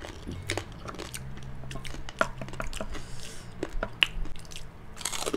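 Close-up chewing and crunching of crispy fried pork chicharon bagnet, with irregular crisp cracks as the pieces are bitten; the pieces stay crunchy even after a dip in vinegar.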